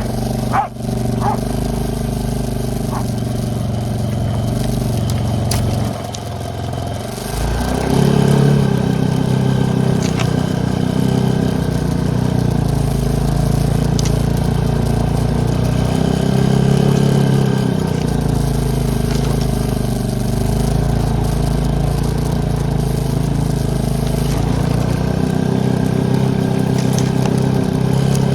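ATV engine running as it is ridden through deep fresh snow, dipping briefly and then picking up in pitch and level about a quarter of the way in, with its note swelling and easing with the throttle after that. A couple of knocks just after the start.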